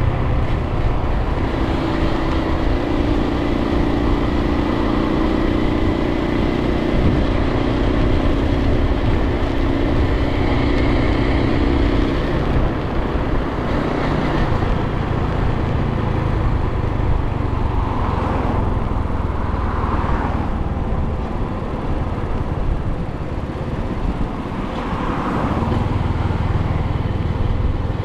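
Suzuki TU250x's single-cylinder engine running under way, under a steady rush of wind and road noise. The engine note is clearest in the first half, eases off a little past the middle, and comes back strongly near the end.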